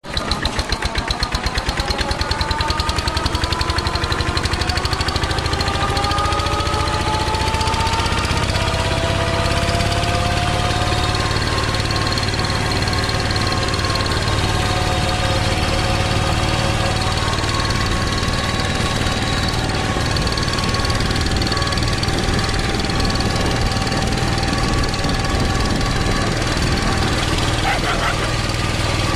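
Tractor engine running steadily, with quick even pulses at first and a whine that rises in pitch over the first ten seconds or so.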